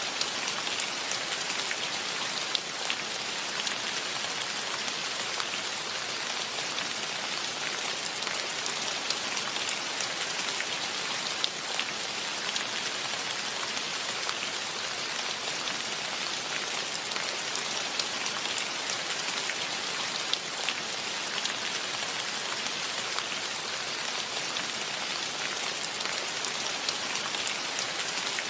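Steady rainfall with many individual drops pattering on surfaces, an even hiss with scattered close drop ticks.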